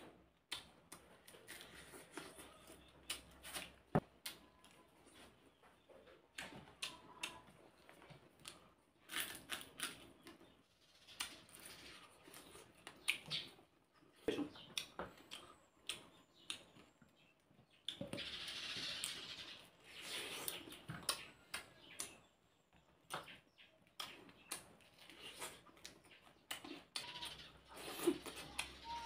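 Close-up eating sounds: chewing and lip-smacking with irregular wet clicks as fried fish and rice are eaten by hand, with a few seconds of hiss about two-thirds of the way through.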